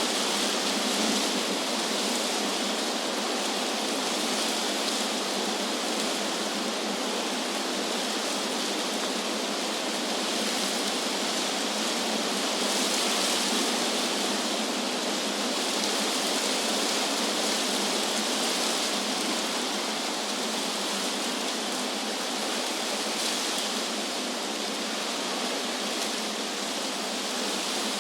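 Wind blowing through the leaves of trees: a steady rushing hiss that swells gently now and then.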